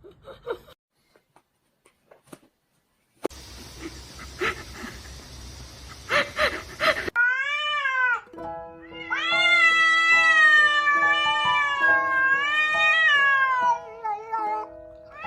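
A domestic cat meowing: one short meow about halfway through, then a long, drawn-out wailing meow that rises and falls in pitch for several seconds, over background music. Before that there are a few seconds of faint knocks and background noise.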